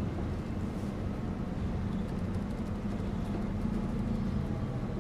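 Steady low engine hum and road rumble heard from inside a moving bus, with a faint rattle now and then.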